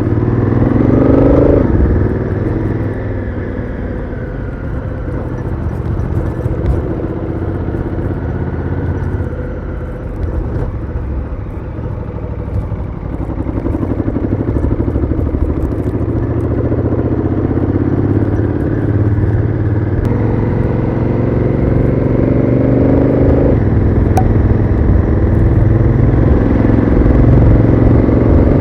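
Honda Africa Twin CRF1000L's parallel-twin engine through its stock exhaust, ridden under way. It climbs in pitch, drops suddenly about two seconds in, runs on, climbs again and drops once more near the end.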